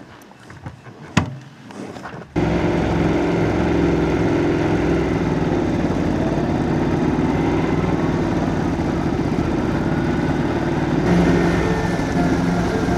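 A Ducati Scrambler 1100 air-cooled L-twin motorcycle engine running steadily under way, coming in suddenly about two seconds in. A single sharp click sounds before it.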